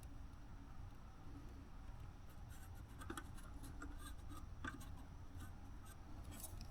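Faint scratching and light tapping of a soldering iron tip and solder on the joints of a circuit board, more frequent from about two seconds in, over a low steady hum.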